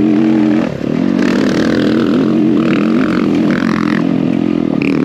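Yamaha YZ250F four-stroke dirt bike engine running under changing throttle while being ridden. The throttle drops off briefly under a second in, then picks up again, with some clattering.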